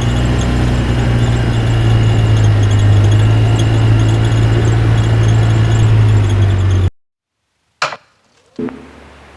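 A loud, steady low drone, like a small motor running, that cuts off abruptly about seven seconds in, followed by a few faint clicks.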